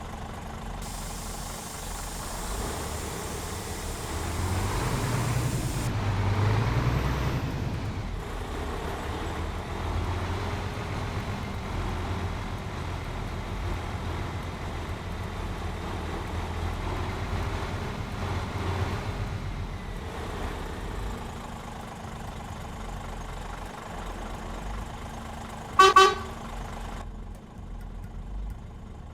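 Scania R420 truck's diesel engine running, revving up a few seconds in and then running steadily. Near the end the truck's horn sounds a short double toot, the loudest sound here.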